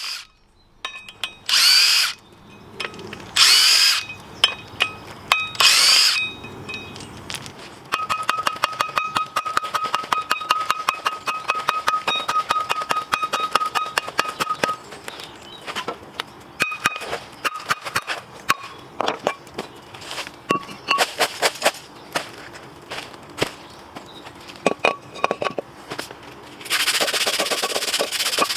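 Hand ratchet clicking rapidly as brake fixings are wound in or out, after a few short bursts of a power tool. A power tool runs steadily again near the end.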